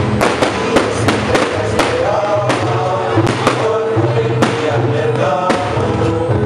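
Fireworks going off over loud music: a string of sharp bangs at uneven intervals above a steady musical backing with sustained bass notes.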